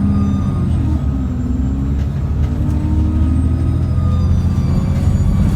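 Cummins ISBe 6.7-litre diesel of an ADL Enviro400 double-decker bus running under way, with turbocharger whine heard as thin high tones over the engine note. The whine sags in the first second or two, then climbs again.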